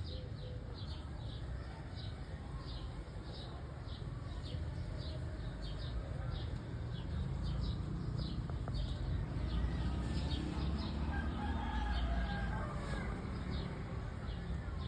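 Rooster crowing about two-thirds of the way in, over a steady run of short high chirps about two to three a second and a low wind rumble.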